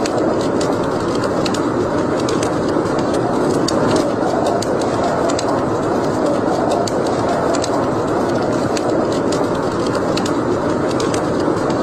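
Fire burning in a fireplace: a steady rushing sound with frequent sharp crackles and pops.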